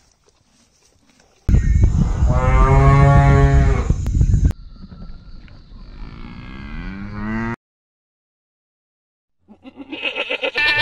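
A cow mooing: one long, loud moo starting about a second and a half in, then a second, quieter moo rising in pitch. After a short gap of silence, a goat starts bleating near the end.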